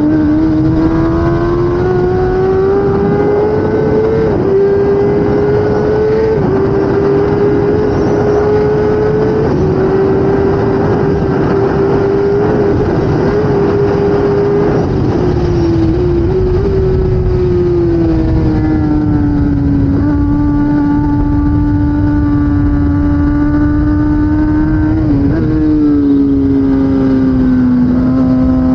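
2016 Kawasaki ZX10R superbike's inline-four engine at race speed, over a heavy rush of wind noise. Its note climbs over the first several seconds and holds high. It falls back through the middle, dips again near the end, and then starts to climb.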